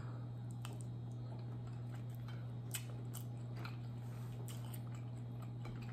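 A person chewing a mouthful of soft, sauced food with the mouth closed: faint, irregular wet mouth clicks over a steady low hum.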